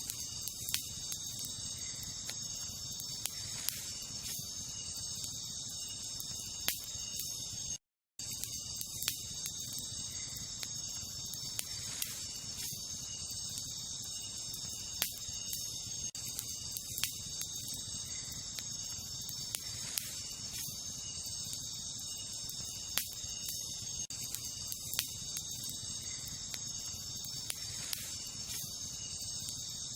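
Wood campfire crackling, with sharp pops at irregular intervals, over a steady high-pitched chorus of night insects such as crickets. The sound drops out completely for a moment about eight seconds in.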